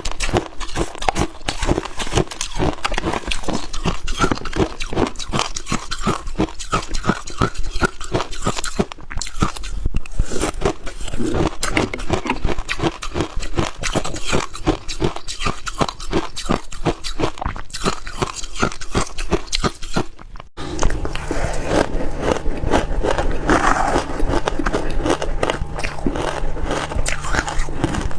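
Mouthfuls of freezer frost (white ice) bitten and chewed in rapid, dense crunches. A little after two-thirds of the way through, the sound cuts abruptly to a denser scraping crunch over a steady low hum.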